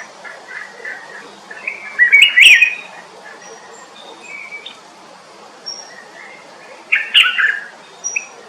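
Songbirds singing and chirping: two loud, quick warbling phrases, about two seconds in and about seven seconds in, with softer chirps between them.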